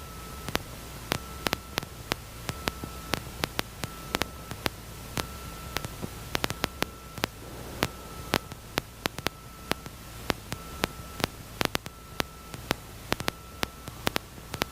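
Electrical static on an aircraft intercom line: a steady hiss with a faint steady whine, broken by irregular sharp crackles several times a second.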